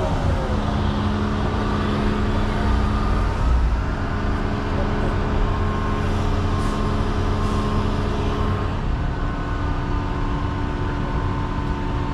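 A John Deere 210 excavator's diesel engine runs steadily as it works, with several steady whining tones above a constant low rumble.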